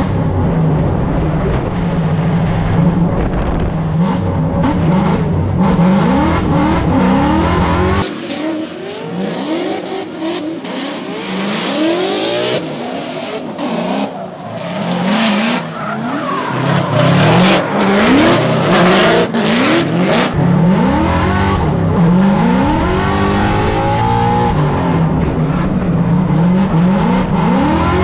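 Supercharged Ford Mustang drift car on a practice run, its engine revving up and down again and again, with tire noise from skidding on a wet track. For a stretch in the middle the deep engine sound drops back and a rushing tire-and-spray noise takes over.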